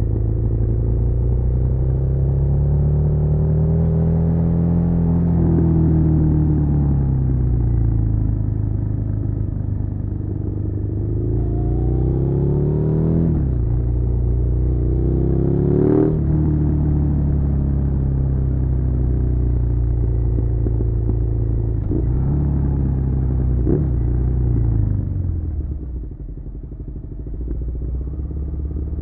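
Suzuki SV650's V-twin engine on the move, its revs climbing and dropping repeatedly through gear changes, with sharp drops in pitch around the middle. Near the end it eases off and goes quieter before picking up again.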